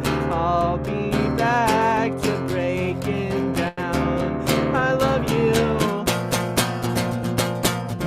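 Acoustic guitar strummed in a steady rhythm, with long wavering held notes above it, as the instrumental close of a song. The sound drops out for a moment just before four seconds in.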